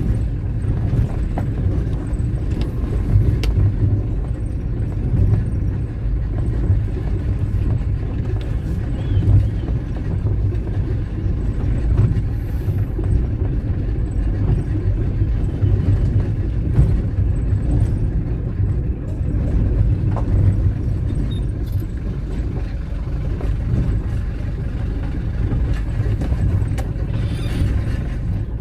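A car driving along: a steady low rumble of engine and road noise with no change in speed.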